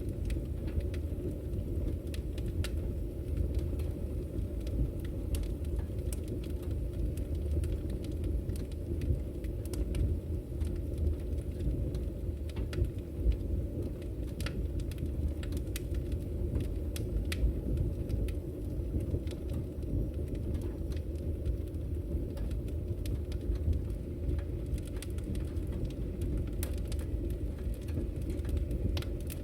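Firewood burning in a fireplace, with scattered, irregular crackles and pops over a steady low rumble.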